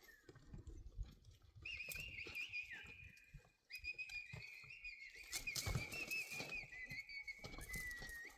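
A person whistling two long, wavering, held phrases, over scattered faint low knocks.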